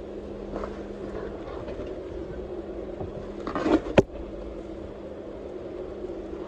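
Jeep engine running slowly and steadily under low load. About three and a half seconds in, a short rising scrape ends in one sharp knock.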